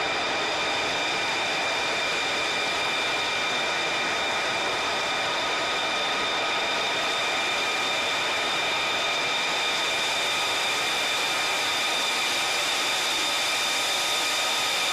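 Jet engine running at a steady speed: a constant rush of noise with a high whine of several steady tones, cutting off abruptly near the end.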